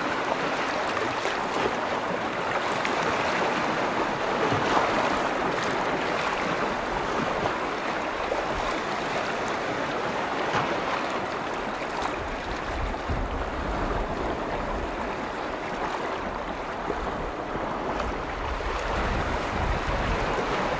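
Steady wash of small waves lapping on the shore of Lake Vänern. A low wind rumble on the microphone comes in about halfway through.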